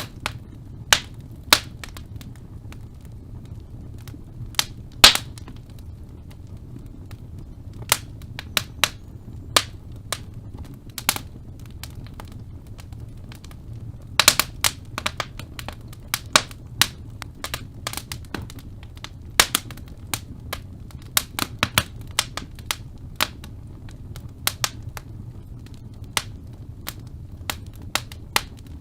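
Wood fire in a fireplace crackling, with irregular sharp pops and snaps over a steady low rumble of the flames. One loud pop comes about five seconds in, and a quick run of snaps comes near the middle.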